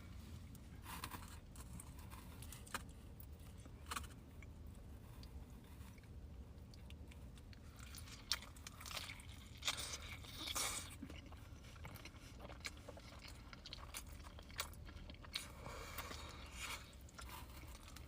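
Close-up chewing and biting of pizza, with scattered crunches of crust. The crunches are densest in the middle and again near the end, over a steady low hum.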